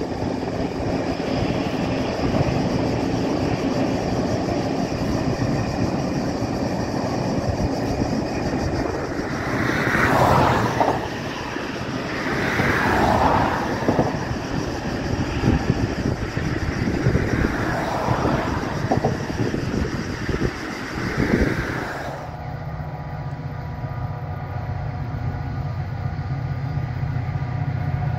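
A train running past on the track, a loud rumble with several falling sweeps in pitch. About two-thirds through, the sound changes abruptly to a steady low engine drone of a train standing or moving slowly.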